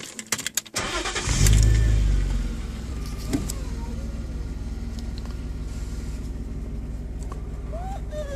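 BMW E34 520i's straight-six engine starting: a few clicks, then it catches about a second in, flares up in revs and settles into a steady idle.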